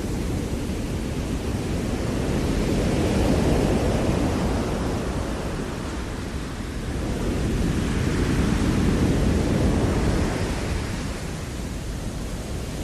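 Ocean surf breaking and washing on a shore, a continuous rush that swells louder twice, about three seconds in and again around eight to ten seconds.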